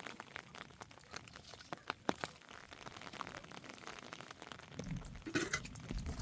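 Faint, scattered raindrops dripping and ticking in a lull of a thunderstorm. A low rumble of thunder begins building about five seconds in.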